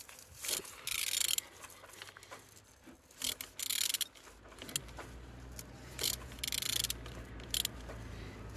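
Used Honda B20Z1 engine being turned over by hand: several short bursts of ratcheting, rubbing noise as it rotates, with a low hum entering about five seconds in. It turns freely, a sign that the engine is not seized.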